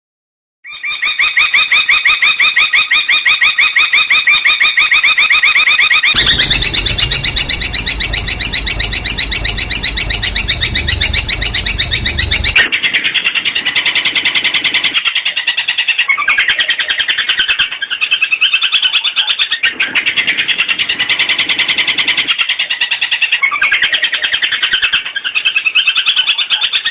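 Long-tailed shrike (cendet) song: fast, rapid-fire repeated chattering notes, many per second. The song comes in three spliced stretches that change abruptly about six and about twelve seconds in. The middle stretch is rougher, with a low rumble underneath.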